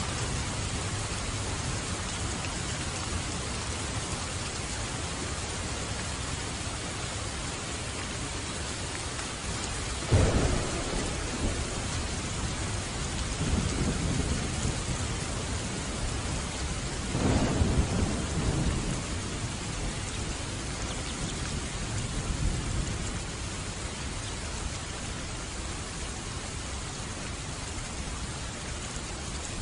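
Steady heavy rain with thunder: a sudden crack of thunder about ten seconds in, and a longer rolling peal a few seconds later.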